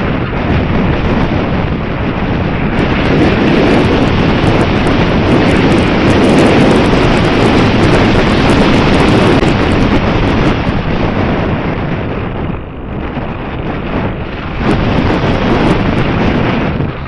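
Strong wind buffeting the microphone: a loud rushing that swells in the middle and drops briefly about twelve seconds in.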